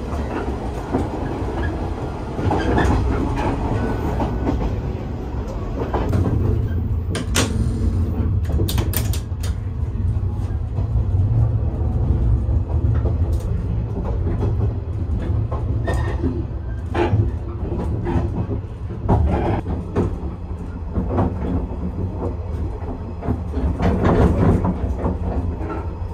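Rokumon train running along the track: a steady low rumble with irregular clicks and knocks of the wheels passing over rail joints.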